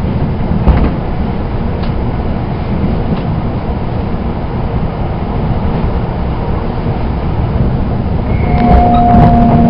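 Shinkansen bullet train heard from inside the carriage, a steady rumble of running noise with a few faint clicks early on. Near the end a steady whine comes in, falling slightly in pitch.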